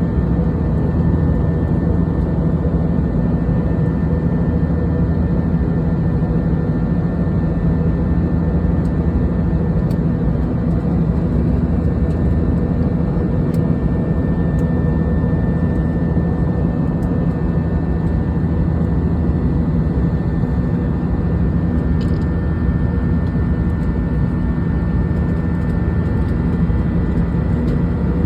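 Airplane cabin noise in flight: a steady drone of engines and rushing air with a faint steady whine above it.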